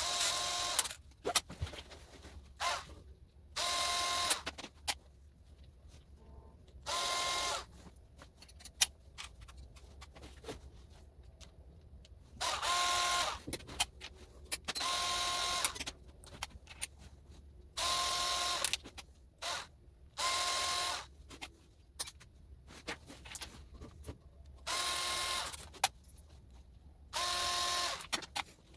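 A small electric power tool running in short bursts of about a second, about ten times, each with a steady whine. Light clicks and knocks come between the runs.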